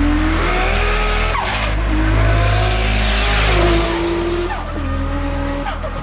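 Toyota Supra's 2JZ-GTE inline-six with a T88H single turbo, accelerating hard past. The engine note climbs in steps between gear changes, peaks as the car goes by about three and a half seconds in, then drops away. Music plays underneath.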